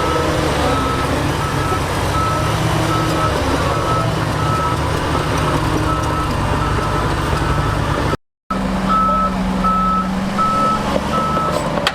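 A heavy machine's backup alarm beeps steadily, about one and a half beeps a second, over the running of a big engine. The sound drops out completely for a moment about eight seconds in.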